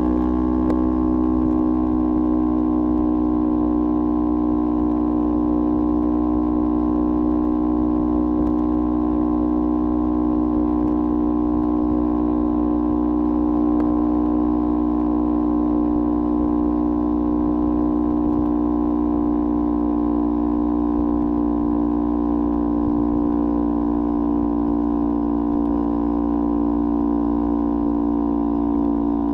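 Kawasaki Ninja 400's parallel-twin engine running through a LeoVince aftermarket exhaust, holding a steady engine speed with an even, unchanging drone after a slight rise in pitch right at the start.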